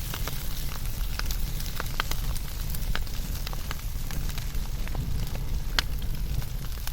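Fire burning, with frequent irregular sharp crackles and pops over a steady low rumble.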